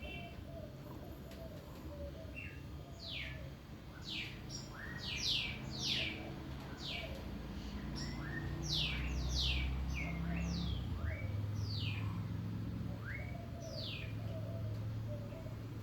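A bird chirping over and over: many short, quick chirps that drop in pitch, coming irregularly, some in pairs. A low rumble runs underneath and is stronger in the second half.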